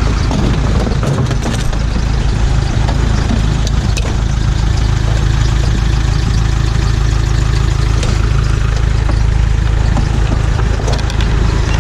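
A motor vehicle engine idling steadily with a low hum, with a few faint clicks over it.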